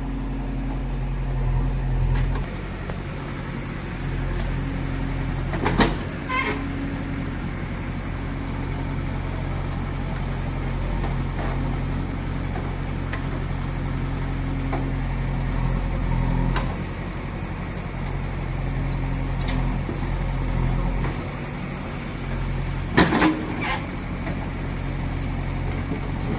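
Diesel engine of a JCB 3DX backhoe loader running steadily, its note swelling and easing every few seconds as the machine works. Sharp metallic knocks come about six seconds in and again, louder and doubled, near the end.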